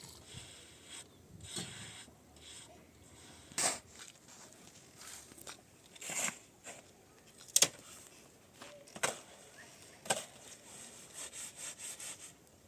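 Irregular scraping and rubbing strokes a second or two apart, with a sharp knock about seven and a half seconds in.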